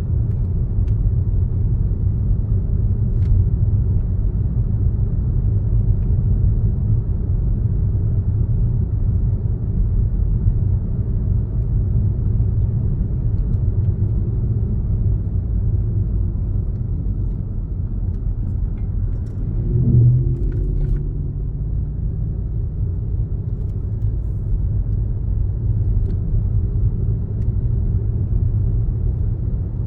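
A car driving along, with a steady low rumble of road and engine noise. About twenty seconds in there is a brief louder swell with a rising pitched tone.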